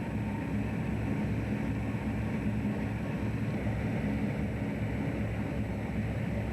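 Steady low hum of a fishing boat's engine running, with an even hiss over it.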